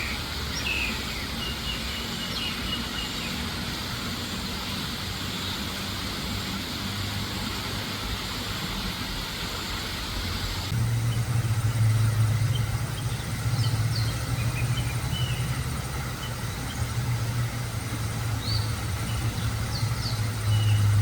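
An engine running steadily with a low hum, louder after a cut about halfway through, over an even background hiss with a few short bird chirps.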